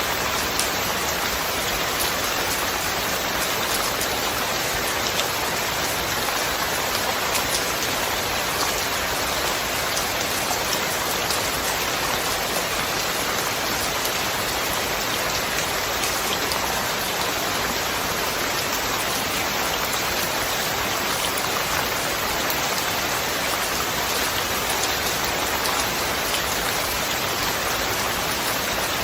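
Steady rain falling, a dense even hiss with scattered drop ticks on a surface, without thunder.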